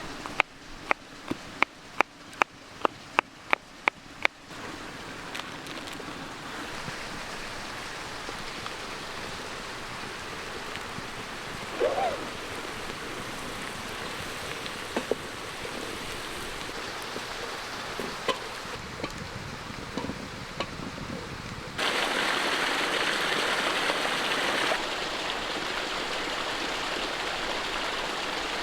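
A small creek running steadily. It is louder in the last quarter. A quick series of about a dozen sharp knocks comes in the first four seconds.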